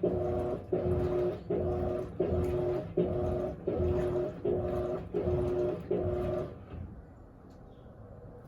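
Electrolux LAC16 top-loading washing machine agitating, its 1/4 hp WEG motor (taken from an LT13B) humming on each stroke at about one and a half strokes a second. The strokes stop about six and a half seconds in.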